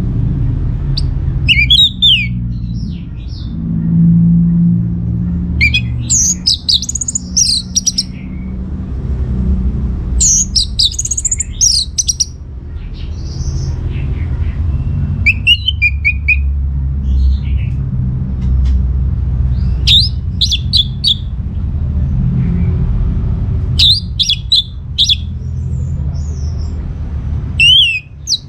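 Orange-headed thrush singing: seven short bursts of quick, varied high phrases, one about every four to five seconds, over a steady low rumble.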